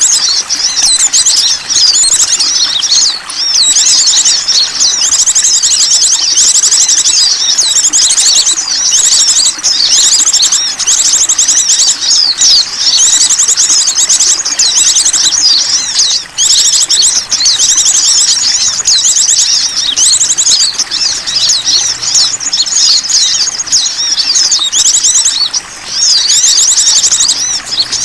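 Dense, loud chirping and rapid high-pitched trills of small birds, layered and almost unbroken: a bird-lure recording (pikat) played to draw in small wild birds.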